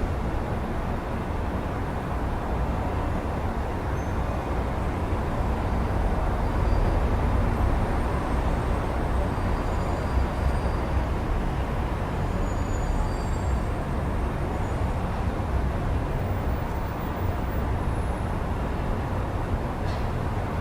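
Steady city road-traffic noise: a continuous low rumble of passing vehicles, heard through an open window, with no single vehicle standing out.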